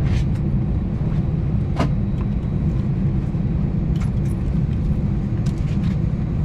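Steady low rumble inside an Airbus A320neo passenger cabin, with a few sharp clicks and light knocks over it, the clearest about two seconds in.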